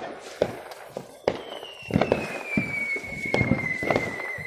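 Consumer fireworks going off: a string of sharp bangs and pops, several seconds apart, with a long whistle that starts about a second in and slowly falls in pitch for over three seconds.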